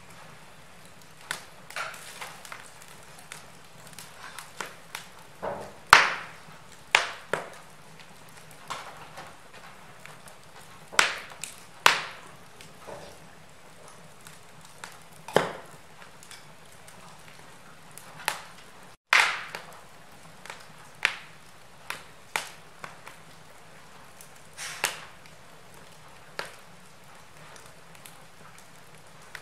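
Wood fire crackling in a fireplace: irregular sharp pops and snaps over a faint steady hiss. The sound cuts out for an instant about two-thirds of the way through.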